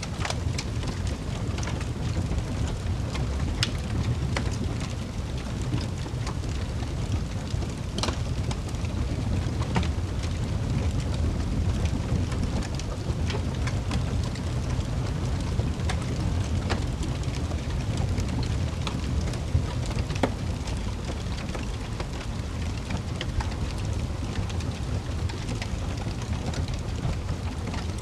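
Wood fire in a fireplace burning with a steady low rumble, with frequent small crackles and occasional louder pops.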